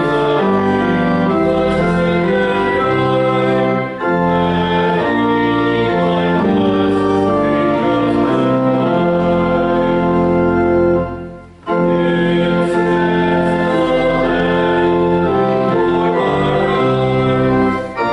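Church organ playing sustained chords in phrases, with a brief break between phrases about eleven and a half seconds in.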